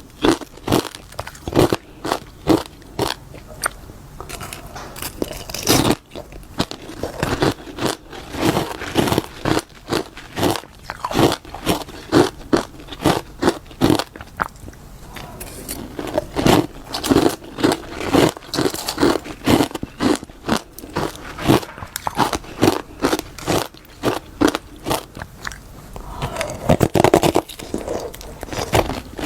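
Close-up crunching and chewing of freezer frost, one or two crisp bites a second.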